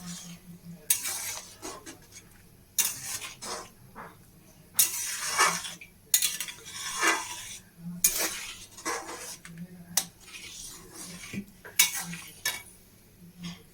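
Metal spoon or spatula stirring and scraping in a cooking pan, in repeated strokes about once a second, with clinks of metal on metal.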